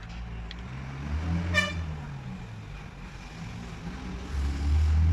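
Engine running with its pitch rising and falling, a brief high toot about one and a half seconds in, and a louder low drone near the end.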